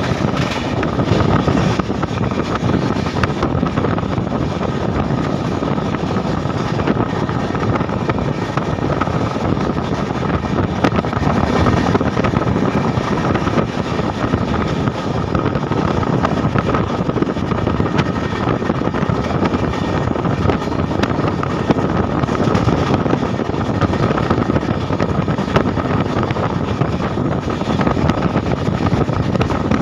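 Train running at speed, heard from a coach window: a steady loud rumble of wheels on rails with rushing wind over the microphone.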